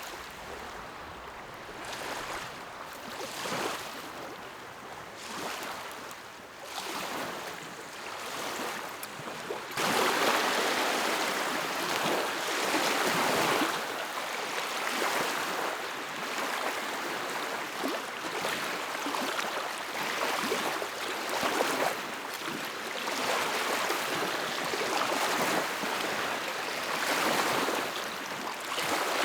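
Small lake waves washing against the shore in repeated swells, jumping suddenly louder about ten seconds in.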